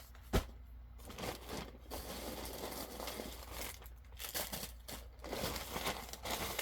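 Packaging being handled and crinkled during an unboxing, with a sharp click shortly after the start and rustling that gets busier toward the end.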